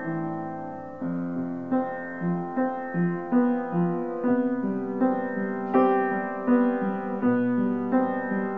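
Piano playing a slow, gentle melody of single struck notes over sustained lower notes, about two to three notes a second.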